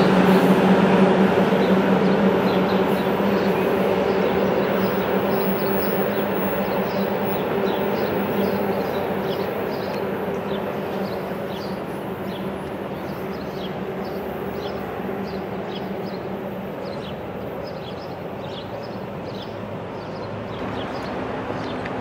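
NJ Transit commuter train moving away, its locomotive's steady low hum fading gradually.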